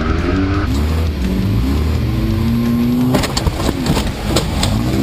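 Demolition derby compact car's four-cylinder engine revving up and down, heard from inside the car. About three seconds in comes a quick cluster of sharp bangs and knocks as the car takes hits in a collision.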